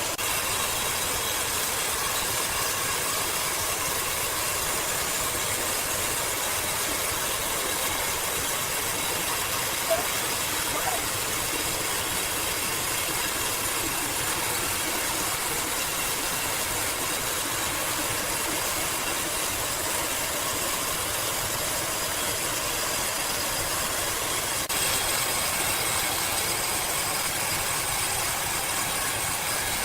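Sawmill machinery running with a steady hissing noise, typical of a large band saw working through a log, with two small knocks about ten seconds in.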